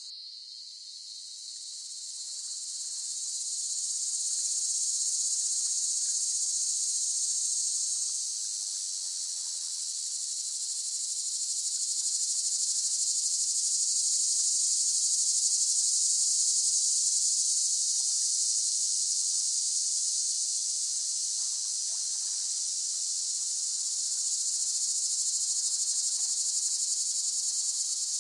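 Cicadas buzzing in a dense, continuous high-pitched drone that swells and eases in loudness, dipping briefly at the start and building back over the next few seconds.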